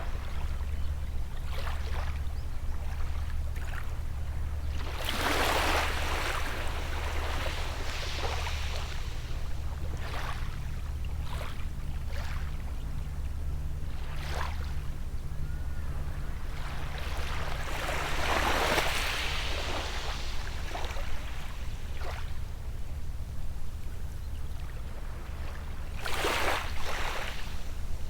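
Gentle sea waves washing in, with three larger swells of wash about 5, 18 and 26 seconds in and small splashes between them. A steady low hum runs underneath.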